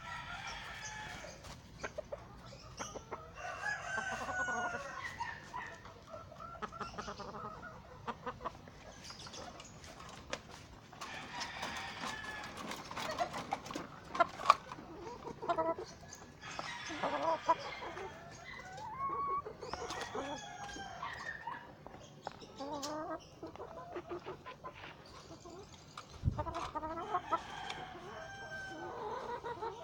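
Game fowl roosters crowing and chickens clucking, several birds calling one after another and overlapping, with scattered sharp clicks.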